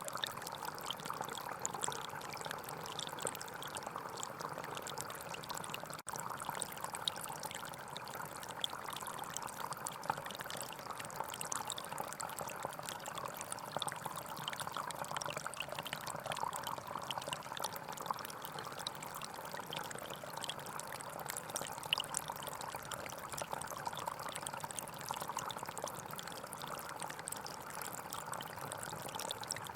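Small forest stream flowing steadily over stones, a continuous trickling babble. The sound drops out for an instant about six seconds in.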